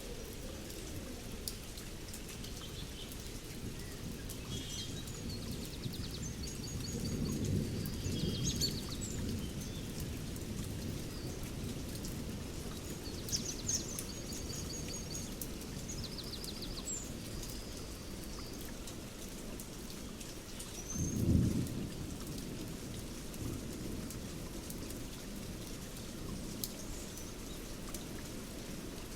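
Thunderstorm: steady rain, with thunder rumbling about seven seconds in and again, louder and sharper, a little past twenty seconds. Birds call in short trills over the rain, mostly in the first half.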